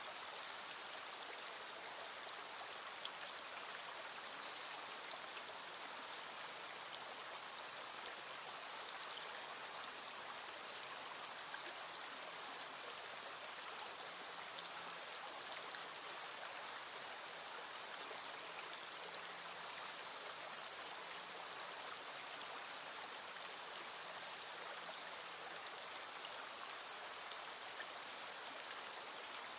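Small mountain stream running steadily, with a few scattered ticks of light raindrops falling.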